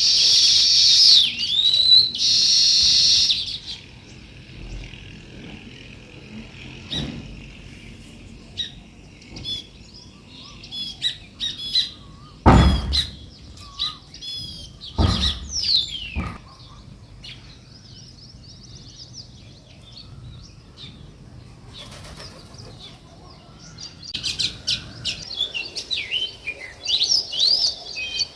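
Small birds chirping in a dense chorus of high, quick calls that thins to scattered chirps after a few seconds and builds again near the end. Around the middle there are two loud thumps, a few seconds apart.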